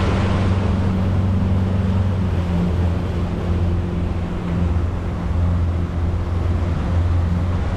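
Fishing boat's motor running steadily underway, a low even hum under rushing wind and water.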